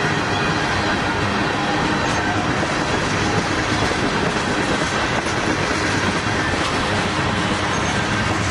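Freight train of tank cars and boxcars rolling past close by: steady, loud rolling noise of steel wheels on rail.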